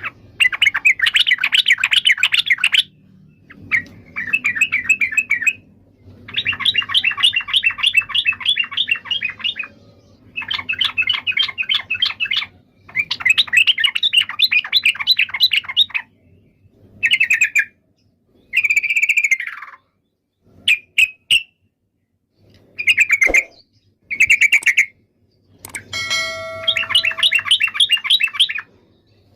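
Yellow-vented bulbul (trucukan) singing loudly: repeated phrases of fast chattering notes, each a second to a few seconds long, with short pauses between them.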